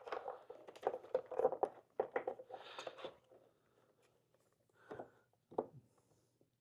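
Light clicks, taps and rattles of motorcycle parts and fasteners being handled during disassembly. They come thick in the first three seconds, then it goes mostly quiet apart from two brief knocks about five seconds in.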